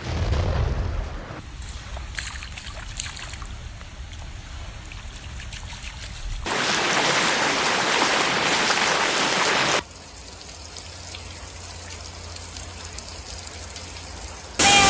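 Torrential rain pouring down: a steady hiss that switches abruptly between softer and louder stretches, loudest from about six and a half to ten seconds in.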